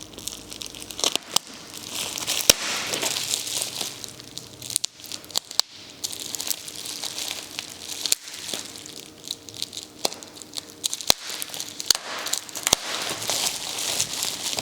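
Protective packing material crinkling and crackling as it is crumpled and pulled off a wrapped glass bottle, with frequent sharp snaps and crackles among the rustling.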